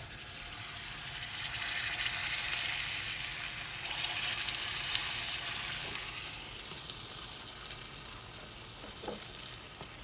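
Food frying in a hot pan. The sizzle swells over the first couple of seconds, holds strongest for a few seconds, then settles into a quieter steady sizzle.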